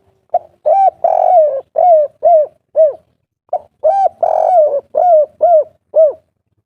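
Spotted dove cooing its 'kuk 3' song: two phrases of about six cooing notes each, the second phrase starting about three and a half seconds in.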